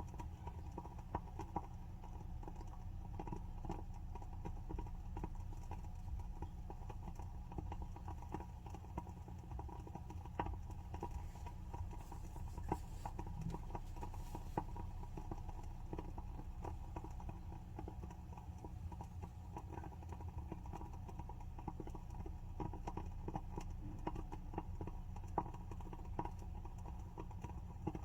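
WoodWick candle's wooden wick crackling as it burns: a steady run of small, irregular ticks and pops, over a low steady hum.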